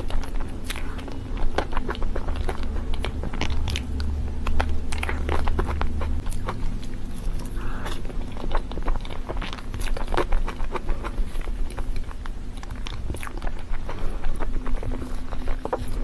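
Close-miked eating sounds of a person chewing crepe cake: a continuous run of irregular small mouth clicks and smacks. A steady low hum runs underneath.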